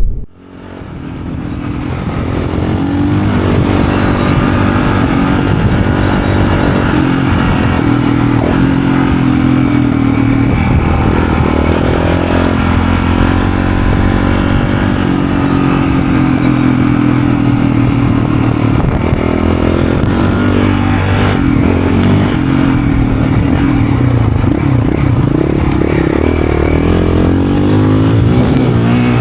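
Honda motorcycle engine running while being ridden, its pitch rising and falling with the throttle, over road and wind noise. The sound builds up over the first few seconds.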